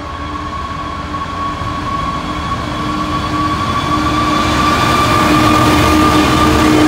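DB Cargo Class 66 diesel locomotive, with its two-stroke V12 engine, hauling a container freight train towards the crossing, getting steadily louder as it approaches, with a steady high whine over the low rumble of the engine and wheels.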